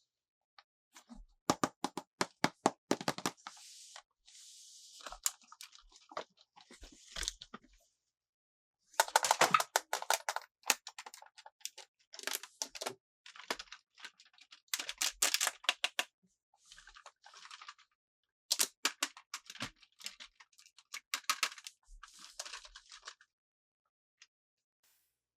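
Toy packaging crinkling and crackling as it is handled and opened close to the microphone: clusters of rapid sharp crackles a second or two long, with softer rustling in between and short silent pauses.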